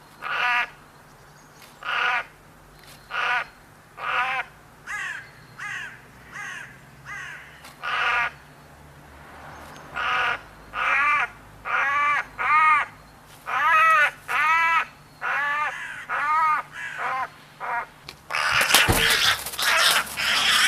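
Crows cawing repeatedly in harsh calls, about one a second at first and coming faster in the second half. Near the end a loud rustling noise starts under the calls.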